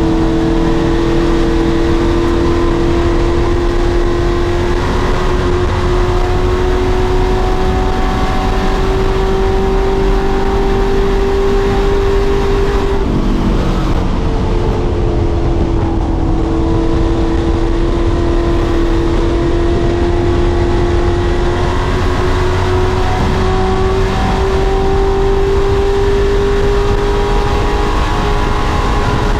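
Pro Truck race engine running hard at speed, its pitch climbing slowly for several seconds and dropping briefly about halfway through and again at the end, as the driver lifts off the throttle.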